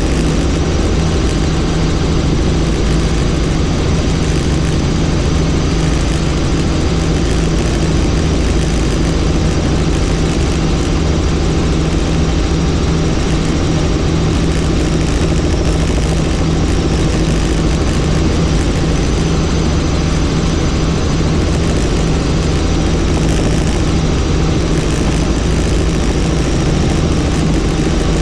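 Helicopter in flight: rotor and engine running steadily, with a constant low hum under an even wash of noise.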